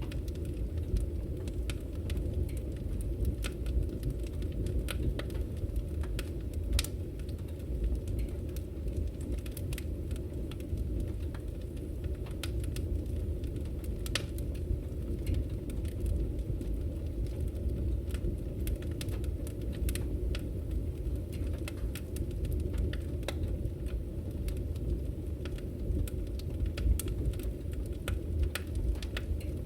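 Firewood burning in a fireplace: a steady low rumble of the flames with frequent sharp, irregular crackles and pops.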